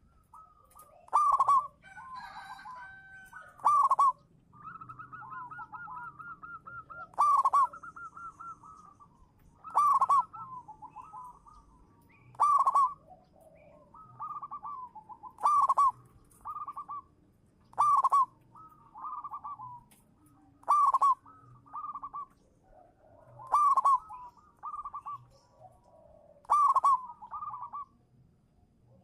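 Zebra dove (perkutut) singing its cooing song: a loud, clipped coo about every three seconds, with softer rolling, trilled coos between them.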